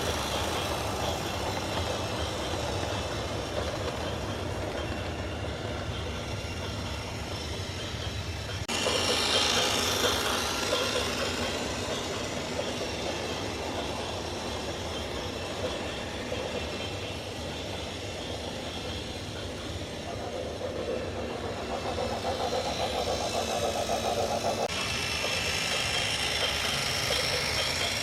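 Heavy vehicle engines running, in separate clips cut together, with abrupt changes in the sound about 9 seconds in and again near 25 seconds.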